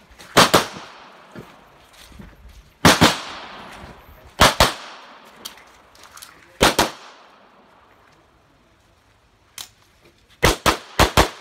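CZ Shadow 2 9mm pistol fired in rapid pairs through a practical-shooting stage. Four pairs come in the first seven seconds, then a pause of a few seconds, then four quick shots near the end.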